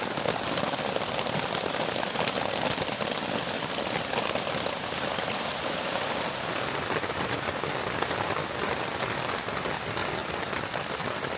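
Rain falling steadily on a tent, a dense, even spatter of drops.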